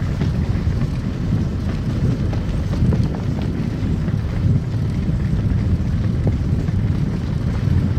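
Car driving on a snow-covered road: a steady low rumble of tyres and engine, with faint scattered ticks.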